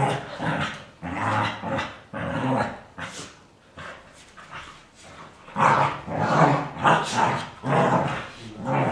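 Dogs play-growling and barking in repeated bursts, easing off for a couple of seconds midway before picking up again.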